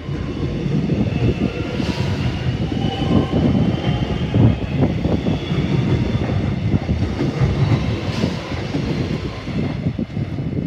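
X'Trapolis electric suburban train running past close by and pulling away, a steady rumble of wheels on rail with irregular clacks over the joints and a few faint high-pitched tones above it.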